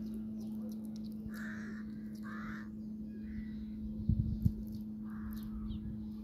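A bird cawing four times in short, harsh calls of about half a second each, over a steady low hum, with a few faint clicks.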